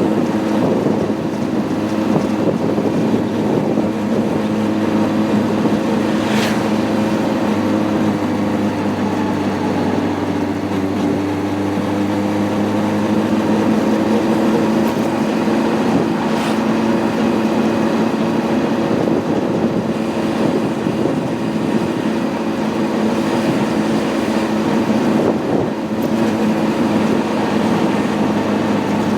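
Honda CB600F Hornet's inline-four engine running steadily at a cruise, its pitch dipping a little about a third of the way in and then rising again.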